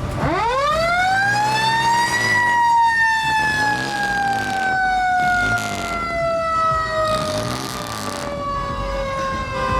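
Mechanical siren winding up steeply to a high pitch over about two seconds, then slowly coasting down in pitch. Three short bursts of noise sound over it partway through.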